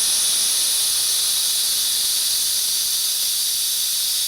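Compressed air blasting out of an Ingersoll Rand air compressor tank's drain valve in a loud, steady hiss, purging the tank, then cutting off suddenly near the end as the valve is shut.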